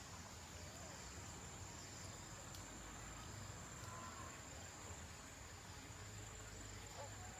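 Faint steady high-pitched trill of insects, held without a break.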